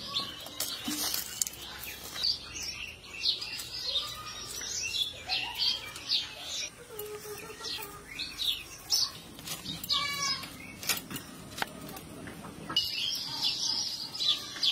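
Small birds chirping and calling repeatedly in short high notes, with a trill about ten seconds in. A few sharp clicks are mixed in.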